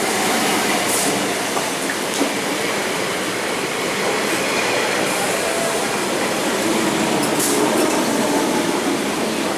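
An EMU electric local train running past on the tracks: a steady rushing rumble of wheels and coaches, with faint wheel-squeal tones over it.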